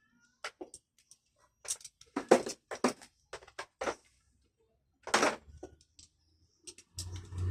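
Scattered sharp clicks and knocks of hand work on a car door's power window mechanism, the two loudest a couple of seconds and about five seconds in. A low steady hum begins near the end.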